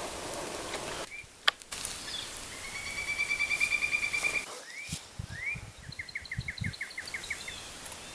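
Wild songbirds singing over a steady outdoor hiss: a rapid, even trill a few seconds in, then a quick run of short down-slurred notes.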